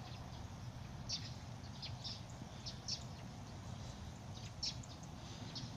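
Short, high bird chirps, repeated at uneven intervals about once a second, over a low steady background rumble.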